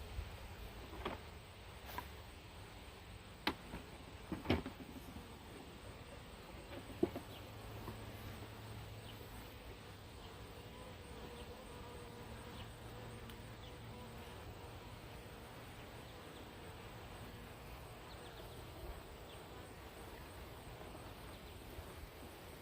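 Honey bee swarm buzzing in a steady hum, with a handful of sharp knocks in the first seven seconds.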